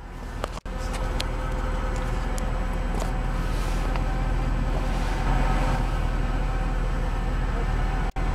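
Steady low drone of the Mercedes C63 AMG's 6.2-litre V8 idling, heard from inside the cabin.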